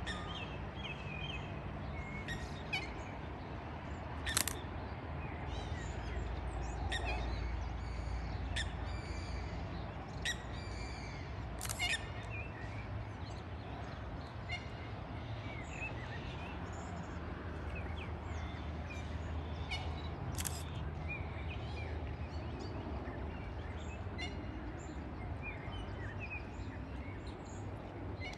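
Small birds chirping and calling on and off over a steady low background rumble, with three sharp clicks.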